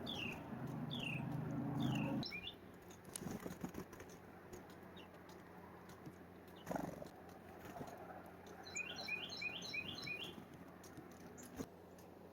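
A songbird whistling a short falling note over and over, about twice a second, and later a quick run of about six notes. A low rumble underneath stops abruptly about two seconds in, with scattered faint ticks and a soft thump later.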